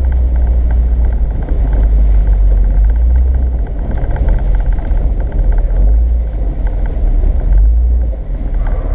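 Off-road vehicle driving along a trail, its engine and running gear making a steady, heavy low rumble.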